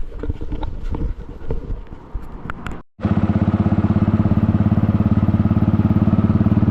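Irregular knocks and rustling handling noise, then after a cut a motorcycle engine running steadily with an even pulsing beat.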